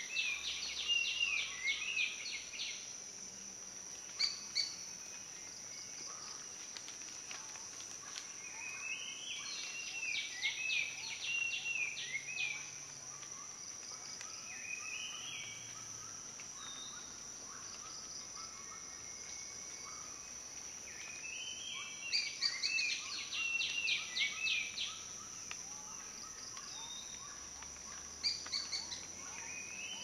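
Forest ambience: a steady high-pitched insect drone, over which a bird sings three bursts of rapid trilled phrases, near the start, around ten seconds in and again after twenty seconds, with a few short single notes between.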